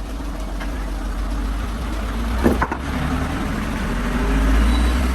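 A vehicle engine running steadily with a low rumble that grows a little louder after about four seconds. A single sharp knock comes about two and a half seconds in.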